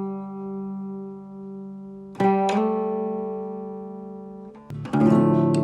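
Acoustic guitar music: chords strummed and left to ring, one about two seconds in, then a quicker run of strums near the end.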